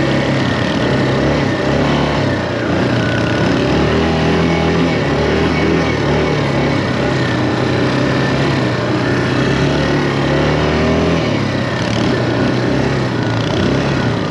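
Quad bike engine running under way, its pitch rising and falling with the throttle.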